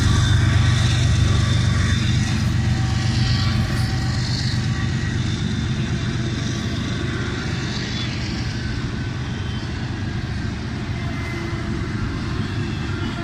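Double-stack intermodal freight cars rolling past on steel rails, a steady rumble of wheels on track that slowly fades.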